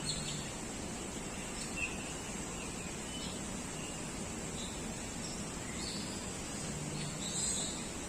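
Scattered short, high bird chirps over a steady background hiss.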